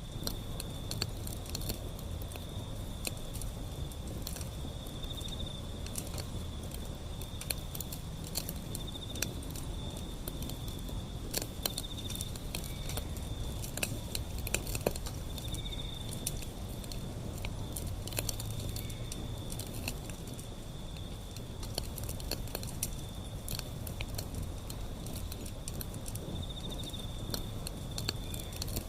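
Wood fire burning, crackling with frequent sharp pops over a low rumble of flame. A steady high insect trill, like crickets, runs underneath, swelling now and then.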